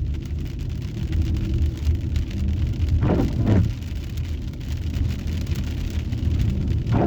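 Heavy rain pattering on a car's roof and windshield, heard from inside the cabin over the car's steady low rumble. A windshield wiper swishes across the glass about every three and a half seconds.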